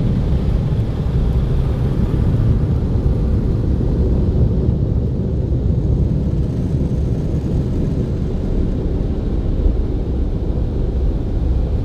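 Car wash air dryer blowers running, a steady, loud rumbling rush of air heard from inside the car's cabin.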